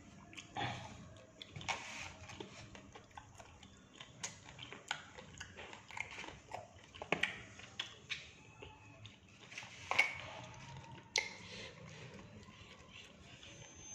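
Close-up eating sounds: a person chewing and biting into batagor, fried fish dumplings, with irregular wet smacks and clicks of the mouth.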